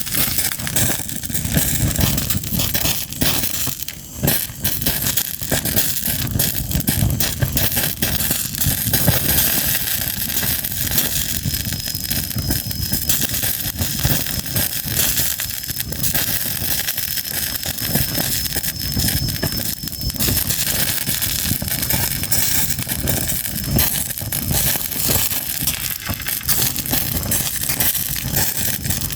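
Fire crackling steadily, a dense run of small pops and snaps over a rushing hiss.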